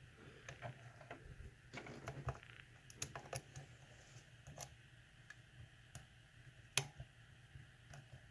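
Faint, irregular small clicks and ticks of a lock pick and tension wrench working the pins of a lock, with one sharper click about two-thirds of the way through.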